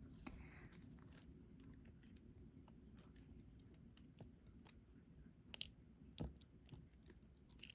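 Faint scattered clicks and taps of a diamond painting pen picking up drills and pressing them onto the adhesive canvas, a few sharper ticks a little past halfway.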